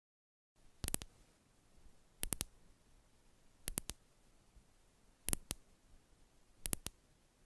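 Sharp clicks in quick groups of two or three, repeating about every one and a half seconds, five groups in all.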